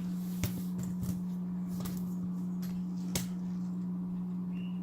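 Aquarium canister filter pumps humming steadily at one low, even pitch, with a few light clicks.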